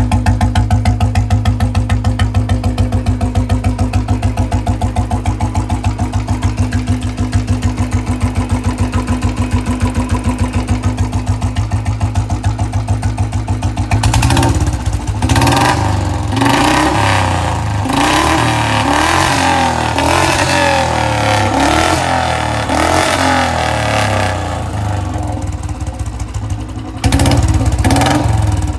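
Royal Enfield Bullet single-cylinder motorcycle engine idling with a steady, even exhaust thump. About halfway through, the revs rise and fall repeatedly.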